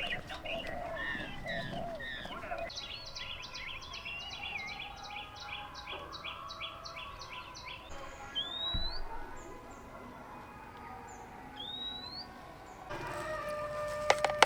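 Wild birds singing: a fast trill of high notes repeated for several seconds, then two single rising whistles a few seconds apart.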